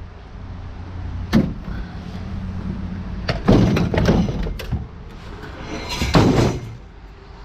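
A refrigerator being shoved and dragged off a truck bed: a sharp knock, then two longer spells of scraping and clattering, with a steady low rumble underneath.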